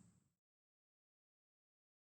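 Near silence: faint background noise fades out within the first half second, then dead digital silence.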